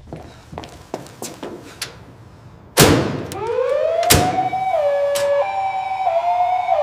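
Light knocks, then a loud thud about three seconds in. An emergency siren winds up in pitch and settles into a two-tone high-low wail, with another sharp knock as it starts.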